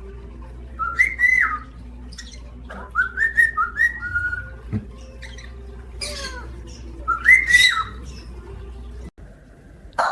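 Parrot calls: short whistles that rise and fall in pitch, in bursts about a second in, around three to four seconds, and again near the end, mixed with harsher squawks around six and seven seconds.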